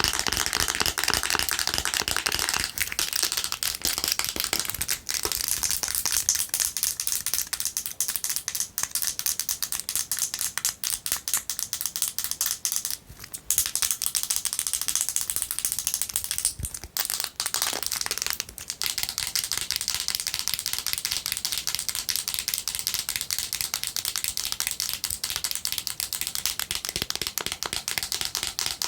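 Fast, continuous tapping and scratching with long fingernails on a mini moisturizer bottle, a dense rattle of clicks. It breaks off briefly twice, about halfway through and again a few seconds later.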